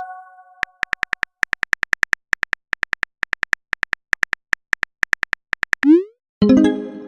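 Phone keyboard click sounds tapping out a text message, a few taps a second. About six seconds in comes a short rising swoosh as the message sends, then a ringing notification chime that fades out.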